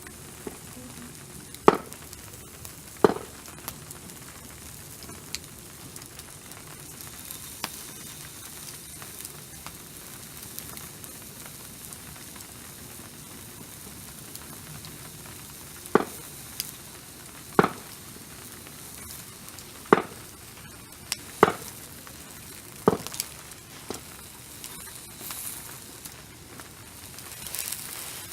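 Food sizzling on a barbecue grill: a steady frying hiss with occasional sharp pops, about seven scattered through.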